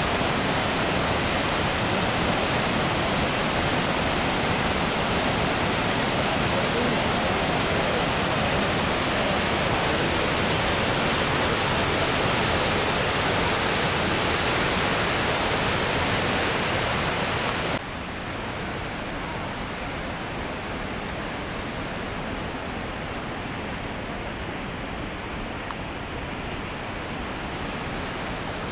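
Goðafoss waterfall: a steady, dense rush of falling water. About two-thirds of the way through it drops suddenly to a quieter, duller rush with the high hiss gone.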